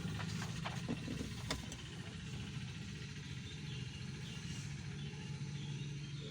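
Daihatsu Xenia 1000's small three-cylinder petrol engine idling steadily, with a few light clicks in the first second or two.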